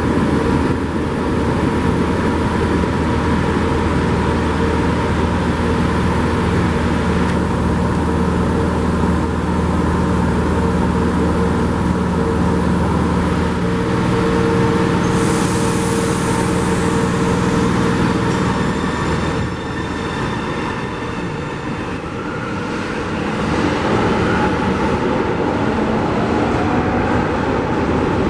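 São Paulo Metro train running through the station: a steady rumble of wheels on track with held motor tones that shift pitch partway through. A brief high hiss comes about halfway, and the sound dips for a couple of seconds before building again.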